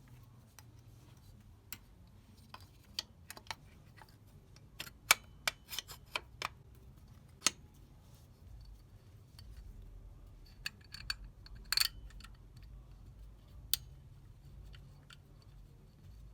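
Hand work on an engine during timing belt installation: irregular sharp clicks and light metallic taps of tools and parts being handled, bunched in two spells, over a low steady hum.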